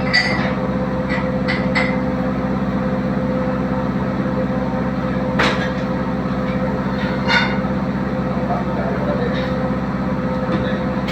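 Diesel engine running at a steady idle, with a few short sharp knocks or clicks over it.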